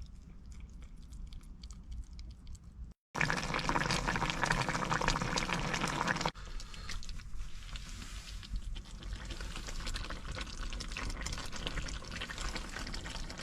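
A few faint clicks, then, after a sudden break about three seconds in, a steady rushing of strong wind on the microphone that eases a little a few seconds later.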